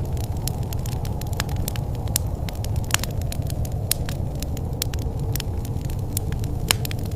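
Fireplace fire crackling: a steady low rumble of burning, with frequent sharp pops and snaps, a few of them louder.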